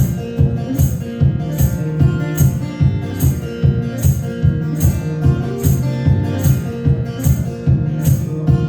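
Acoustic guitar strummed in a steady rhythm: the instrumental introduction of a song, before the vocals come in.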